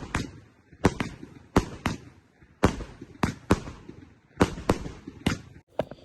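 Fireworks going off: about a dozen sharp bangs, often in quick pairs, with the explosions stopping just before the end.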